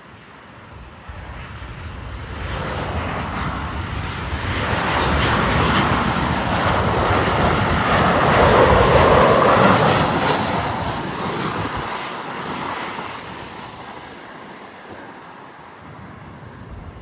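Boeing 737-700's CFM56-7B jet engines passing by: the rumble and roar swell for several seconds, peak, then fade away.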